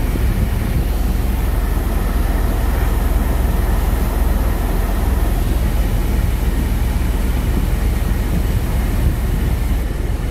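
Steady low rumble and hiss inside a stopped car's cabin, the car's engine idling.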